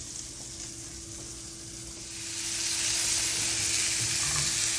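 Plant-based burger patties frying in hot oil in a skillet, a steady sizzle that grows much louder about two seconds in.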